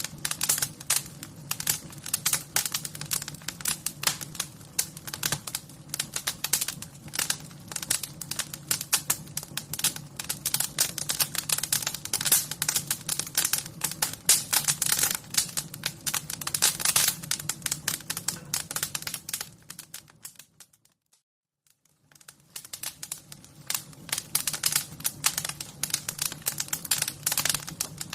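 Wood fire crackling, a dense run of quick irregular pops and snaps over a steady low rumble. About twenty seconds in it fades almost to silence for a second or two, then comes back.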